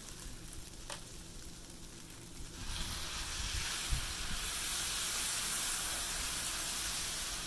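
Noodles and vegetables frying on a hot flat-top griddle, sizzling steadily; the sizzle grows louder about three seconds in as garlic sesame sauce goes onto the hot steel. One soft knock about four seconds in.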